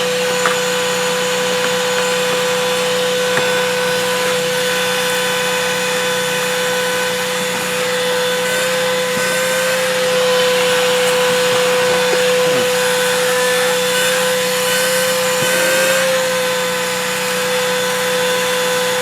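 Thisworx 12-volt handheld car vacuum running with its hose attachment: a steady motor whine that rises slightly in pitch twice as the suction load changes at the nozzle.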